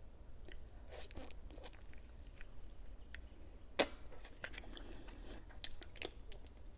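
Close-miked mouth sounds of eating a fruit jelly stick: soft, wet chews and scattered clicks, with one sharp click a little under four seconds in.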